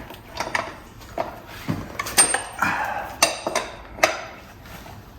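Irregular metallic clinks and taps of hand tools against steel motorcycle parts, one ringing briefly about two seconds in, as the drive sprocket is being worked loose.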